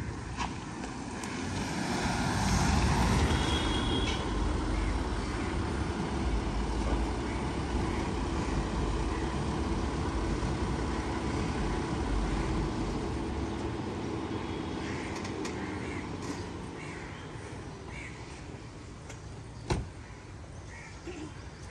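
Motor vehicle noise: engine and road rumble with a steady hum, loudest about three seconds in and fading after the middle, then one sharp knock near the end.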